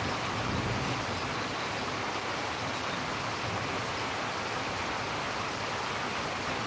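Steady hiss of rain in a storm, with a low rumble of thunder dying away in the first second.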